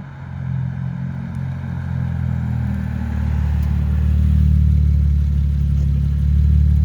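BMW N54 twin-turbo inline-six running through a Berk full race exhaust and VRSF catless downpipes: a deep, steady exhaust drone that grows louder over the first few seconds, then holds.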